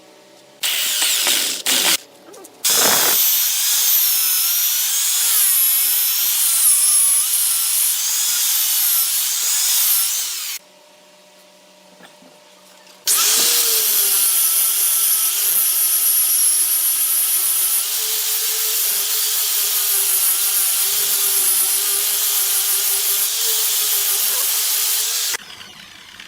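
Woodturning tool cutting wood on a spinning lathe: two long spells of loud, high cutting noise with a wavering whine. The first spell breaks off briefly twice near its start and stops about ten seconds in; the second starts a few seconds later.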